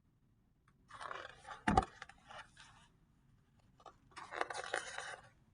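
Pages of a paper picture book being turned and handled: two bouts of rustling and scraping, with a single knock about two seconds in.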